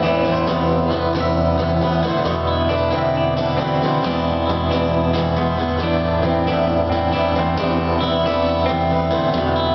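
Live rock band playing an instrumental passage between sung lines, led by strummed guitar over bass and drums.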